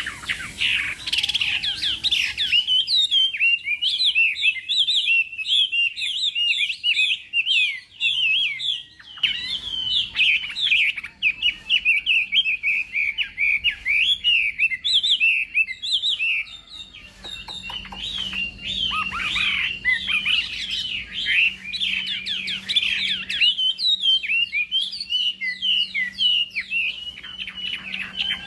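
Chinese hwamei singing a long, unbroken run of rapid, varied whistled notes.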